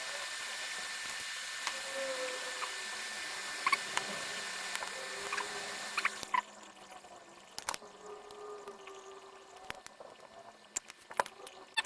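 Steady airy hiss of a hot air rework station blowing during replacement of the iPhone 6S charging IC, cutting off about halfway through. After that come scattered light clicks and taps of small tools on the board.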